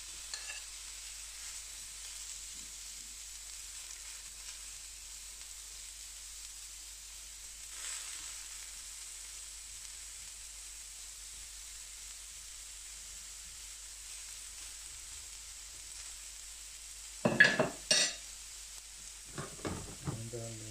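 Potatoes and bacon sizzling steadily on a hot carbon steel griddle. About 17 seconds in comes a short burst of loud clattering and scraping as a spatula works the food, with a few lighter knocks after it.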